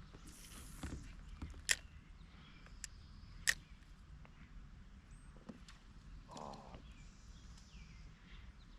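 Quiet outdoor ambience broken by a few short, sharp clicks, the loudest about one and a half and three and a half seconds in.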